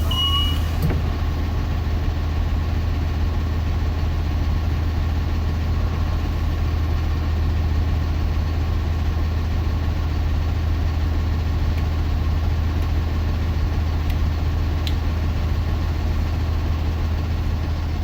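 Mercedes-Benz OM926LA inline-six diesel in a 2009 Thomas Saf-T-Liner C2 school bus idling steadily after a cold start. A brief air hiss stops within the first second.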